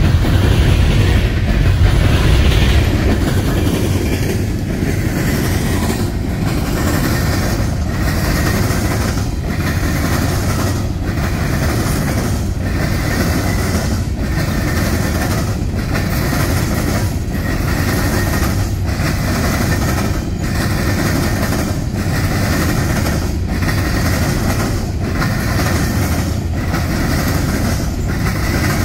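Freight train's coal gondola cars rolling past close by: a steady rumble of steel wheels on rail, broken by a regular clack about once a second. A heavier low rumble from the departing locomotives fades over the first few seconds.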